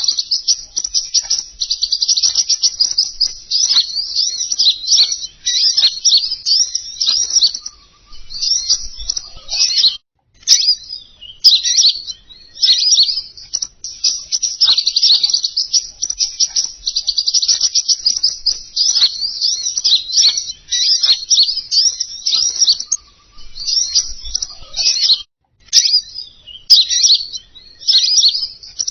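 Rapid, dense, high-pitched twittering song of a small songbird, played as a lure call (suara pikat) to attract king konin birds. It runs in long phrases, with short breaks about ten seconds in and again near the end.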